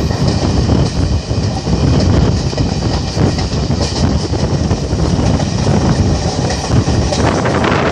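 Track sound of a moving Indian Railways passenger train, heard from a coach doorway: a steady, loud rumble of the coach's wheels on the rails with clattering over the rail joints.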